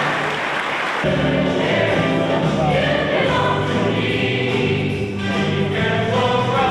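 Choir singing with music, coming in about a second in after a brief rushing noise.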